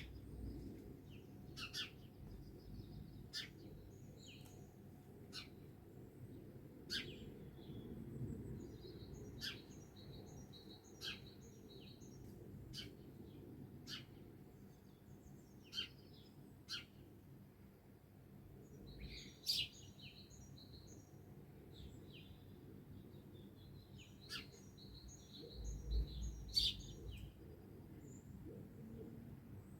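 Several songbirds singing at dawn: sharp, down-slurred high notes repeated every second or two, mixed with quick runs of short high chirps, over a faint low background rumble.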